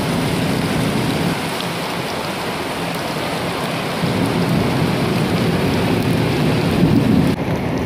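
Heavy rain falling steadily, heard from a moving vehicle on a wet road: a dense, unbroken noise. The higher hiss dulls abruptly just before the end.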